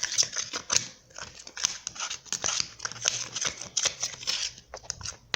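Spoon stirring thickening slime in a small pan: a run of irregular scraping and clicking strokes.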